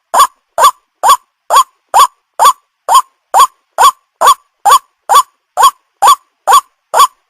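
White-breasted waterhen call played as a bird lure: a short note that rises and falls in pitch, repeated at a very even pace about twice a second.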